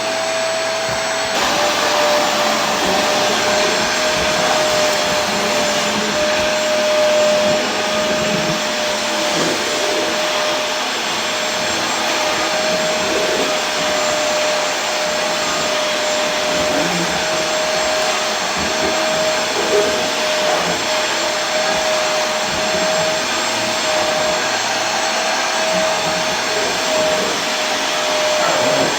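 Vacuum cleaner running continuously: a steady rushing hiss with a constant whining tone, which dips slightly in pitch about a second in.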